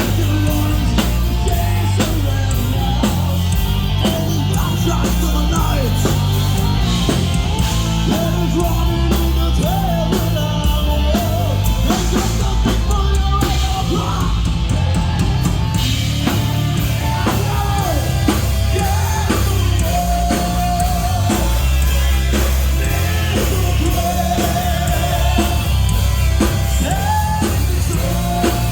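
Heavy rock band playing live at full volume: a pounding drum kit and bass under electric guitars, with a sung vocal line.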